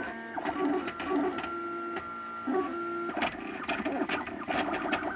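MakerBot Thing-O-Matic 3D printer's stepper motors whining as it prints the top layers. Several steady tones hold, then jump to new pitches as the head changes direction and speed, with light clicks throughout.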